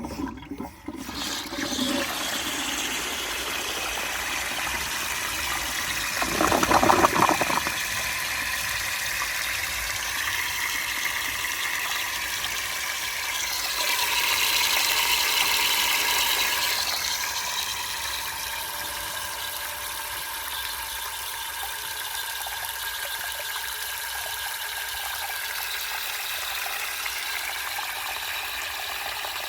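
Cast iron bell-type toilet cistern running water: a steady rushing hiss, with a louder surge about six seconds in and a brighter swell a little past the middle, as it flushes and refills. The cistern flushes unreliably.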